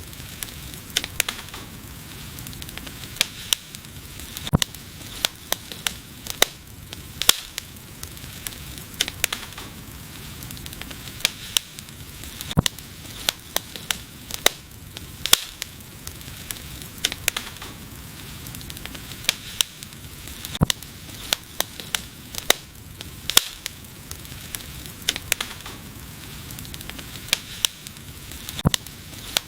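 Wood fire burning with a steady hiss and frequent sharp, irregular crackles and pops.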